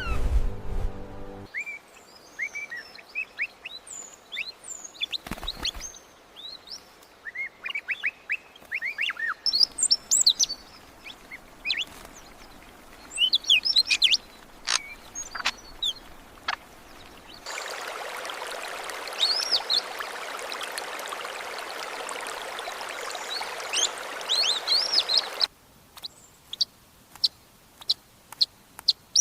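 Birds chirping with many short, quick calls that sweep in pitch. A steady hiss joins them past the middle for about eight seconds and cuts off suddenly. A run of sharp clicks comes near the end.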